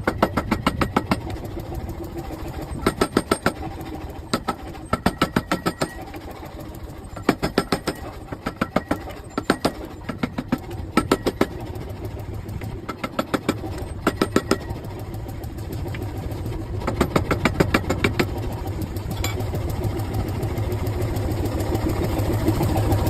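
Power hammer striking a hot iron axe blank in short runs of rapid blows, about seven a second, over the steady hum of its motor. This is the splitting step, where the iron is opened up to take the steel strip of a steel-cored axe.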